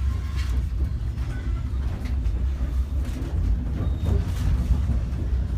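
SBB passenger train passing close by: a steady low rumble of wheels on the rails, with faint clicks now and then.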